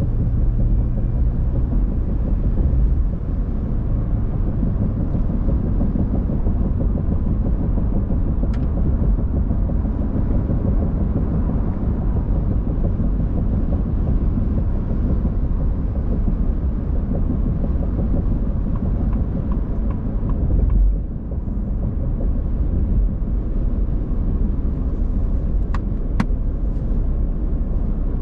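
Car driving on the highway: a steady low rumble of engine and tyre noise, with a short louder swell about three quarters of the way through.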